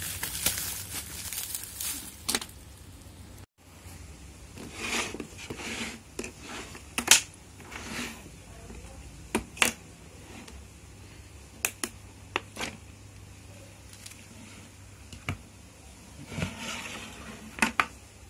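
Hands handling and unpacking a cordless drill kit: scattered sharp clicks and knocks of hard plastic, with short crinkling rustles of packaging.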